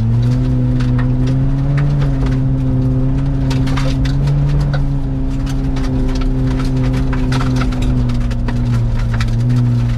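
Ford Fiesta ST engine pulling steadily inside the cabin, its pitch rising and falling a little as the throttle changes, with frequent sharp clicks of gravel and ice striking the car's underside.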